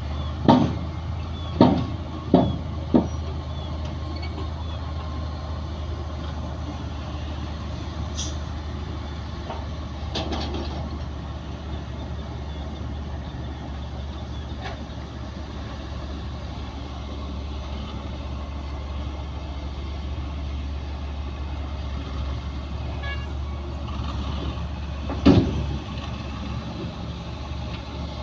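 Bulldozer's diesel engine running steadily under load, with sharp metallic clanks: four in the first three seconds and one more near the end.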